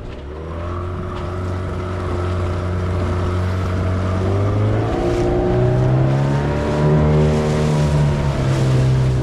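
Boat motor running steadily, its pitch and loudness rising about halfway through as it speeds up.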